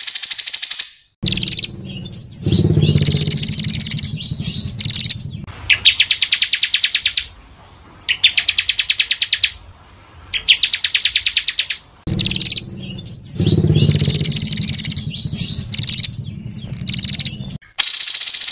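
Recorded songbird song played as a masteran training track: short, dense phrases of chattering song cut together with abrupt splices. In the middle come three rapid, buzzy, high trills about a second apart, and the same passage of song plays before and after them.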